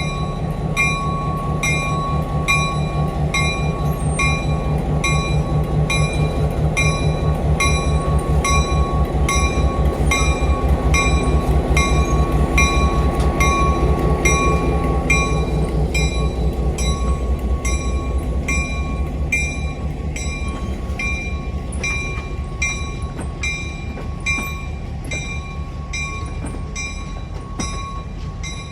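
A locomotive bell ringing steadily, a little faster than once a second, while a train rolls by with a low rumble that swells and then fades over the back half.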